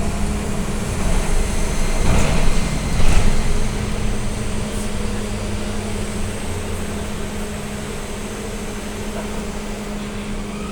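Cabin of an AKSM-321 trolleybus under way: a steady electrical hum over road noise. A burst of knocks and rattles comes from about two to three and a half seconds in and is the loudest part.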